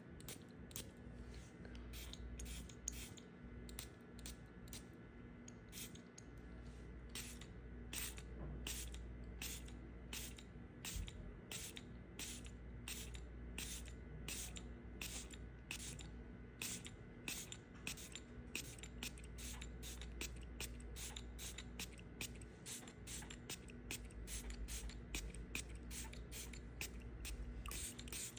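A knife cutting through soap, with crisp short cuts about twice a second in a steady rhythm.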